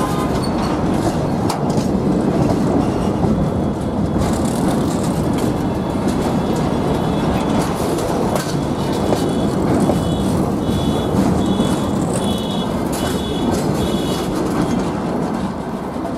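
Freight train of long enclosed wagons rolling slowly past close by: a steady rumble of wheels on the rails with clicks at the rail joints. From about halfway there is a run of short, high squeals repeating about twice a second.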